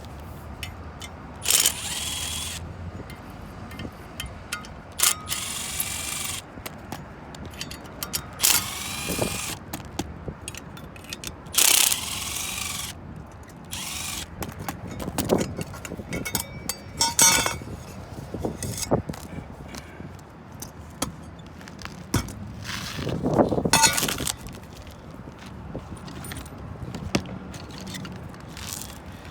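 Repair work on a condenser fan assembly: several short runs of a cordless drill/driver, about a second each, among metal clinks and scraping of tools and parts.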